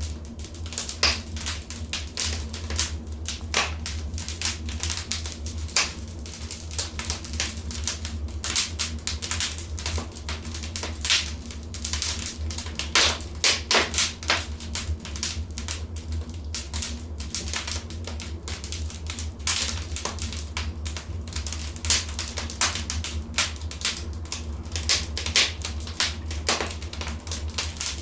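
Wood fire in a fireplace crackling: irregular sharp pops and snaps, some louder than others, over a steady low rumble.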